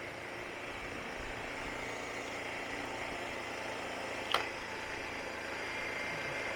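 Motorcycle running steadily on the road, engine and road noise as heard from a camera on the bike, with a single sharp click about four seconds in.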